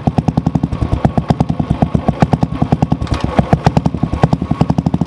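Royal Enfield Bullet single-cylinder engine running at idle in gear, a steady rapid thumping of about nine beats a second, with the drive chain turning. This is the chain noise the owner finds irritating, which he puts down to a dry chain since its tension is fine.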